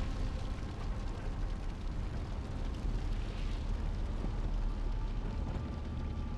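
Steady low rumble of a pickup truck driving, heard from inside the cab, mixed with the roar of a house fire outside.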